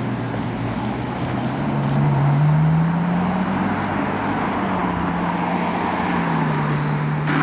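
A supercar's engine pulling by at low speed. Its note rises over the first few seconds, holds, then drops a little near the end, over steady road and tyre noise, with a sharp click just before the end.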